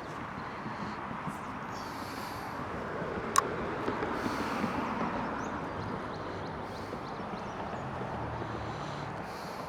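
Steady road-traffic noise from a nearby road, swelling as a vehicle passes a few seconds in and then easing. A single sharp click is heard about three and a half seconds in.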